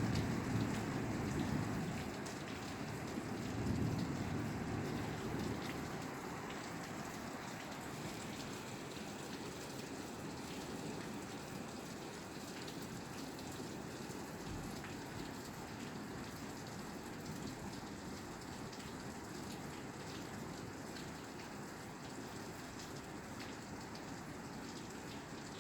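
Steady rain falling on a roof, with individual drops tapping through the hiss. A low rumble, strongest in the first couple of seconds and again about four seconds in, then fades out.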